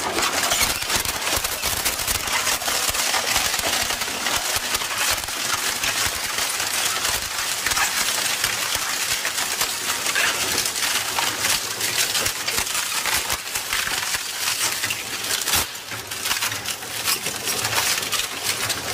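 Industrial rotary shaft shredder's hooked cutter discs tearing up wooden planks: continuous loud cracking and splintering of wood, easing briefly near the end before picking up again.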